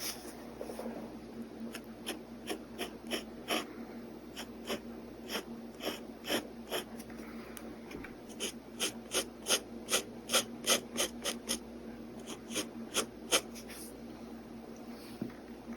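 Pen nib scratching on paper in short hatching strokes, spaced out at first, then a quick run of about three strokes a second in the second half.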